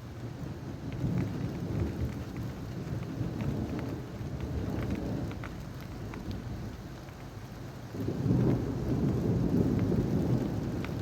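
Rain falling steadily with rolling thunder. A low rumble swells about a second in, eases, then builds again near the end, over scattered raindrop ticks.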